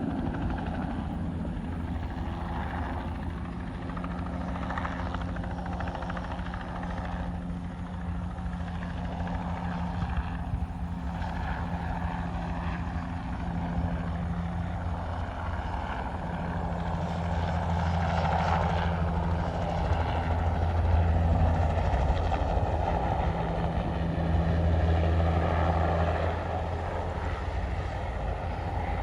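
Crop-spraying helicopter in flight: a steady rotor and engine drone that grows louder in the second half.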